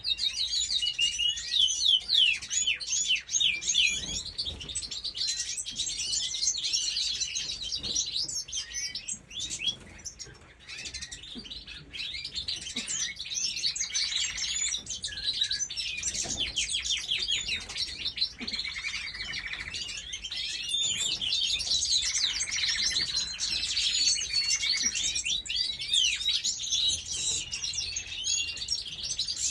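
A flock of small birds chirping and twittering all at once, a dense chorus of quick high chirps that thins briefly about ten seconds in.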